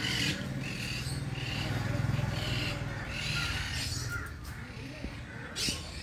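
Birds calling: a string of short, repeated calls over a low steady hum, with a brief noisy burst near the end.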